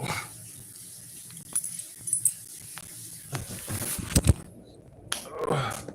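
Handling clicks and knocks, the loudest a quick pair about four seconds in, then a short dog vocalization near the end.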